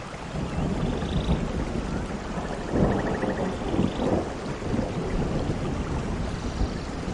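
Thunderstorm: steady rain with rolling thunder, the rumble swelling loudest about three to four seconds in.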